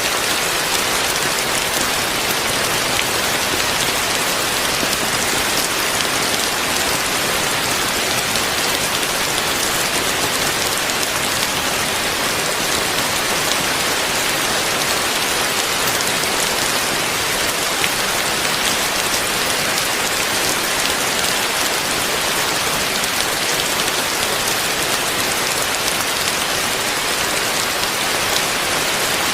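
Heavy rain falling steadily: a dense, even hiss flecked with the fine ticks of drops striking surfaces.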